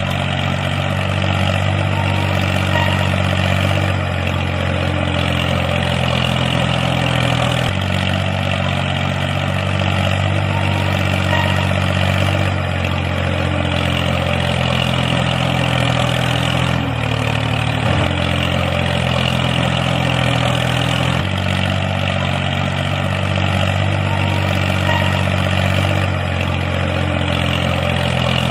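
Tractor engine running steadily at a low, idle-like pace. Its pitch shifts slightly every few seconds.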